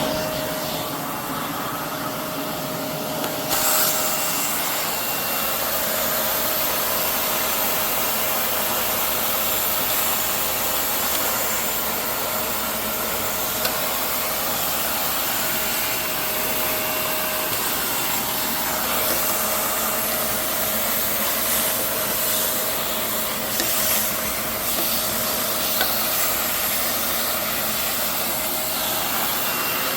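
Vacuum cleaner running steadily while cutting hair is vacuumed off the floor, a steady rushing hiss with a constant motor hum; the hiss grows brighter and a little louder about three and a half seconds in.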